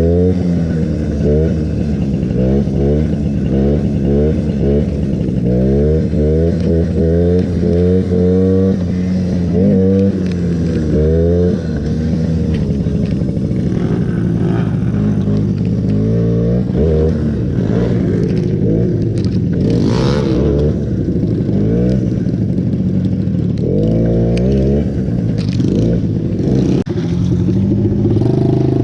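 Small mini bike engine revving up and down over and over as it is ridden, the pitch climbing and dropping every second or two, with a short rasping burst about two-thirds of the way through.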